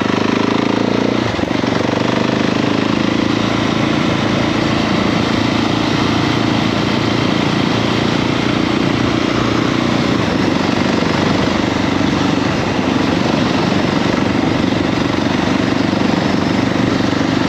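KTM 690 SMC-R's single-cylinder engine running steadily under way, with wind rushing over the microphone.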